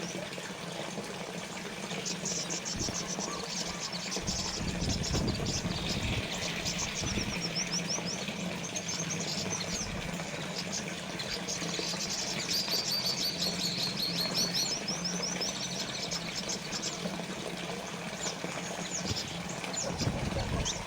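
Water trickling steadily from a small fountain, with small birds chirping and twittering in quick trilled series over it through much of the stretch.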